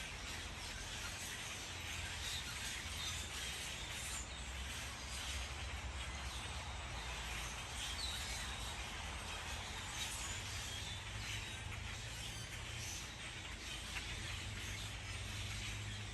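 Outdoor ambience with a few faint, scattered bird chirps over a steady hiss and a low rumble.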